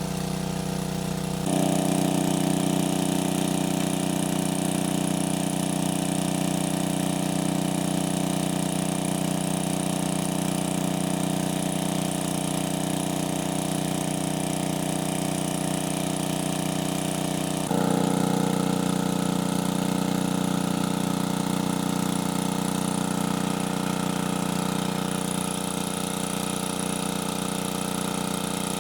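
A small engine running steadily with a constant pitch. Its note and loudness jump abruptly to a new steady setting about a second and a half in, and again about two-thirds of the way through.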